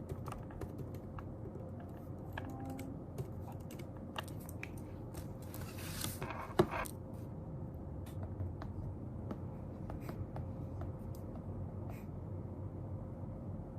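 Quiet desk-work sounds: scattered light clicks and taps over a steady low room hum, with a short paper-like rustle about six seconds in that ends in one sharp tap, the loudest sound.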